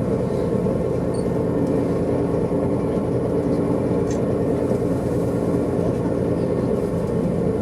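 Steady engine and road drone of a moving vehicle, heard from inside its cabin, with an even low hum that holds constant throughout.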